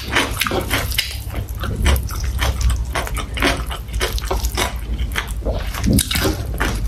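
Close-miked wet chewing and lip-smacking while eating sausage with rice and vegetables: a quick, irregular run of small wet clicks and smacks.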